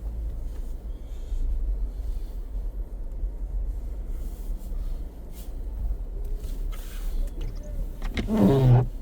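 Steady low rumble of a car moving slowly, heard from inside the cabin. Near the end comes a short, loud pitched sound lasting under a second.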